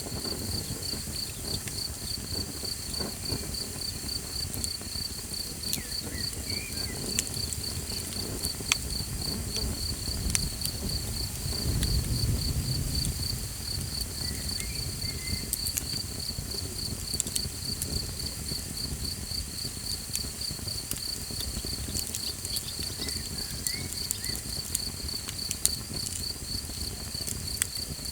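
Crickets chirping in a steady, evenly pulsed trill, with scattered sharp pops and crackles from a campfire. A brief low rumble swells about halfway through.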